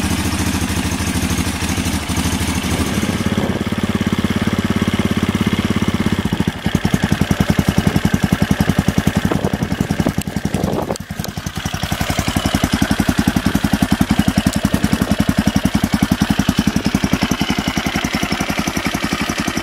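KTM 660 SMC's single-cylinder four-stroke engine idling through its exhaust, a steady, even pulsing beat. The sound changes character about a third of the way through, with a short dip a little past the middle.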